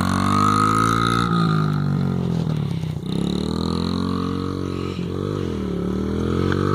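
Honda CRF50F's small four-stroke single-cylinder engine revving up and down, its pitch rising and falling several times.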